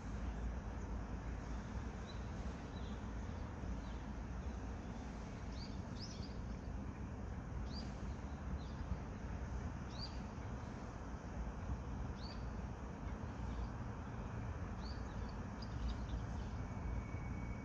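A small bird calling in short, high chirps every couple of seconds over a steady low outdoor rumble. A faint steady high tone comes in near the end.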